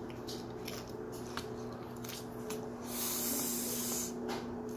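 Chewing crunchy tortilla chips loaded with cheese, sour cream and jalapeños, with scattered crunches and wet mouth sounds. About three seconds in, a hiss lasts for about a second, over a steady low hum.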